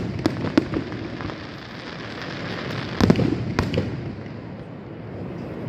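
Aerial firework shells bursting overhead: a few sharp bangs just after the start and a louder pair about three seconds in, with a steady hiss between them.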